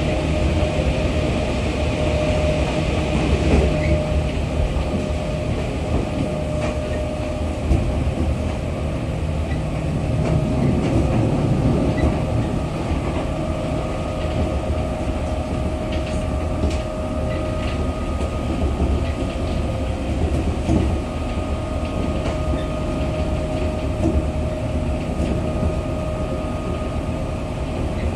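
Running noise of a JR East 211 series electric train heard inside a motor car: a steady rumble of wheels on rail with a steady hum, and a few short clicks.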